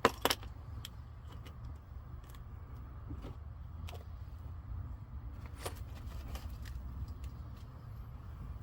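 Radio-controlled 6x6 truck and trailer rattling and clicking as they move, over a steady low rumble. Two sharp knocks come just after the start, and light clicks follow through the rest.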